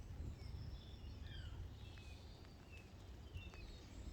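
Faint birdsong: scattered short, high chirps and whistles, several sliding down in pitch, over a low steady rumble.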